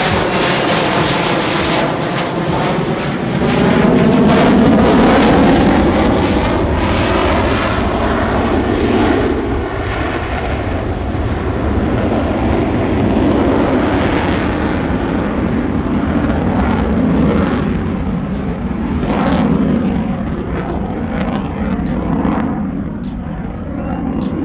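F-16 fighter's jet engine during a slow, high-alpha pass, with the afterburner lit about four seconds in. A loud, continuous jet roar whose tone sweeps up and down as the aircraft moves past.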